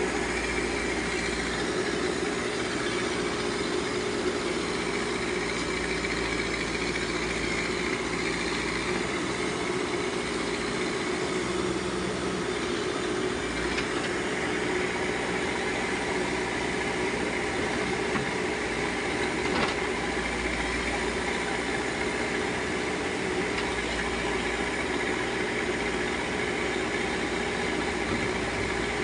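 Diesel engine of a backhoe loader running steadily, with a couple of faint knocks in the middle.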